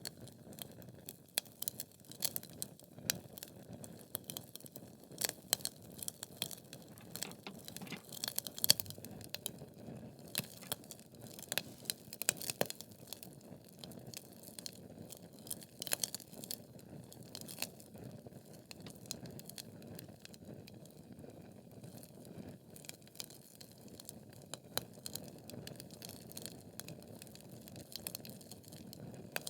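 Wood logs burning in a fireplace, crackling with irregular sharp pops over a low steady hiss of the flames; the pops come thicker in the first half.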